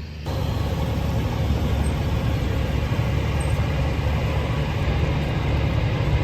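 Steady low rumble of a heavy vehicle running, cutting in suddenly just after the start.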